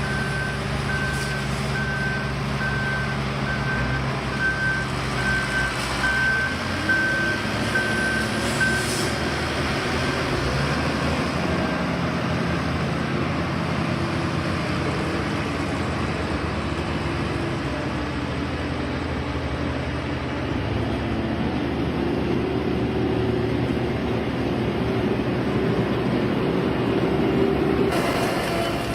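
A heavy construction machine's engine running, with a reversing alarm beeping at a steady pace for about the first nine seconds. The engine note shifts a few times as the machine works.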